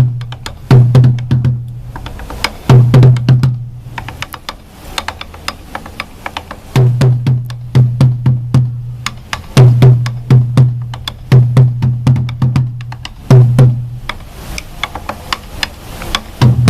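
Sansa odori taiko drumming: a troupe of drums beaten in unison in a repeating pattern, with groups of deep booms alternating with sharp clicking strikes. The booms drop out for a few seconds partway through, leaving only the clicking, then return.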